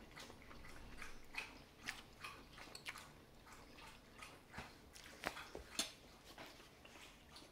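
A person chewing a mouthful of jajangmyeon noodles in black bean sauce, close to the microphone: faint, irregular wet smacks and mouth clicks.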